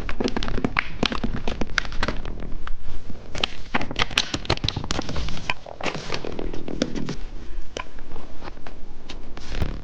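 Close-miked crunching of a candy snack being bitten and chewed: a long run of sharp crackling clicks, thickest around the middle.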